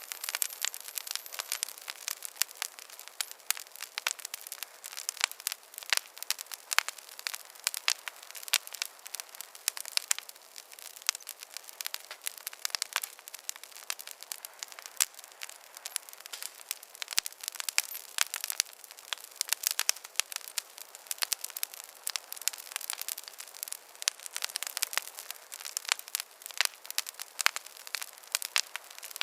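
Wood campfire crackling: a dense run of small sharp snaps and pops, several a second, over a soft steady hiss, with almost no low rumble.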